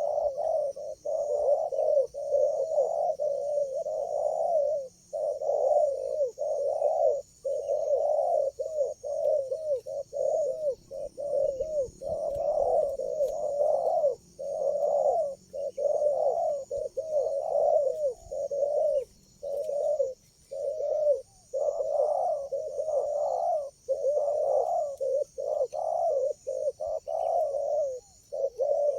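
Spotted doves (tekukur) cooing, phrase after phrase with only short breaks between them, the low coos overlapping almost without pause. A faint steady high hiss runs underneath.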